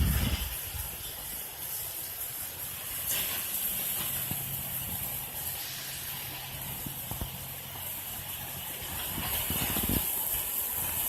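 Hurricane wind and rain: a steady rushing hiss, with gusts buffeting the microphone near the start and again near the end.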